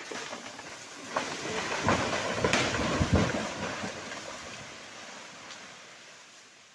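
A felled tree coming down: snapping and cracking from about a second in, building to a heavy crash of trunk and branches around three seconds in, then a rustling that fades away.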